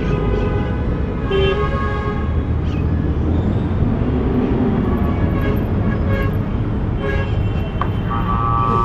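Busy city street traffic: a steady rumble of car engines and tyres, with car horns tooting several times and a longer horn sounding near the end.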